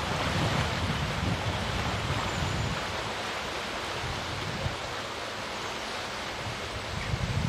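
Class 70 diesel-hauled freight train passing at a distance, a steady rushing rumble of the train on the track, mixed with wind buffeting the microphone, which is gustiest in the first few seconds and again near the end.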